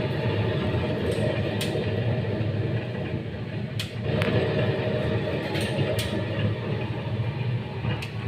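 Electric meat slicer running, its motor and circular blade giving a steady hum, with a few sharp clicks along the way.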